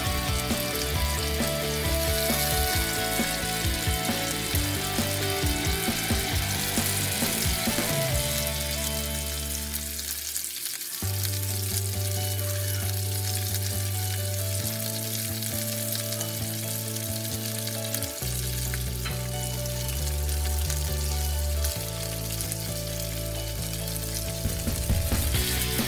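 Kingfish pieces and sliced vegetables sizzling steadily as they fry in oil in a frying pan, with a few sharp clicks near the start and near the end. Background music with sustained low notes plays underneath.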